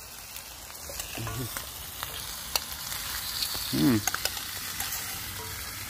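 Bacon and sliced red onions sizzling steadily in pans over campfire embers, with a spoon stirring the onions and scattered sharp clicks.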